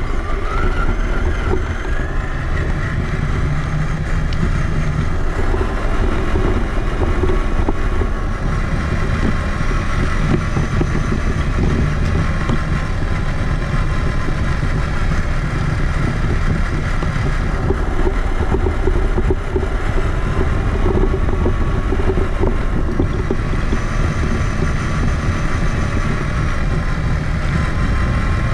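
Traxxas Summit RC truck heard from on board: a whine from its electric motor and gears that drifts up and down with the throttle, over a steady rough rumble from the tyres and chassis on the ground.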